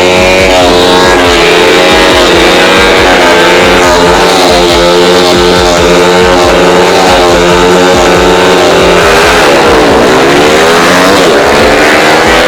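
Small-displacement drag-race motorcycle engines with open slashed exhaust pipes, running loud and revving. The pitch wavers up and down throughout and there are rising and falling revs about ten seconds in.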